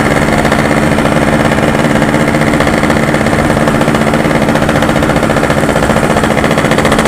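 Yamaha RX-King's 135 cc two-stroke single-cylinder engine running at a steady, unchanging speed.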